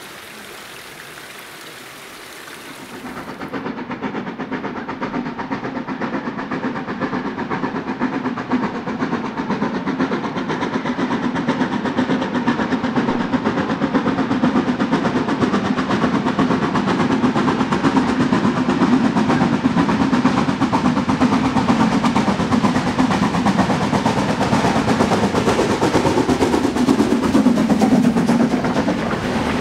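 Narrow-gauge steam locomotive working hard uphill, its exhaust beating in a fast, even rhythm that grows gradually louder and stays loud. It comes in abruptly about three seconds in, after a quieter steady hiss.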